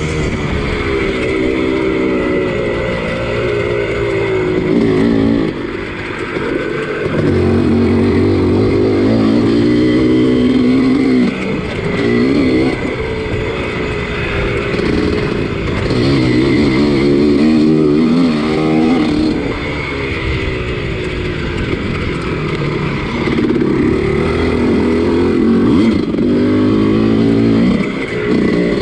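1983 Husqvarna 250CR single-cylinder two-stroke motocross engine under race throttle, its pitch climbing in repeated runs and dropping back as the throttle is chopped and gears change.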